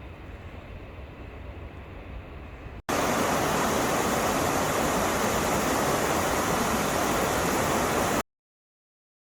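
Faint outdoor background noise, then, after a cut about three seconds in, loud steady rushing water that cuts off suddenly about eight seconds in.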